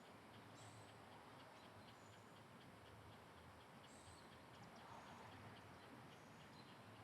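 Near silence: faint background ambience with a soft, even ticking about three or four times a second and a few brief high chirps.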